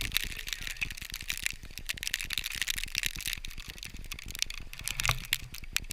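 Rapid, irregular clicking and crackling over a hiss, with a few louder clicks near the end.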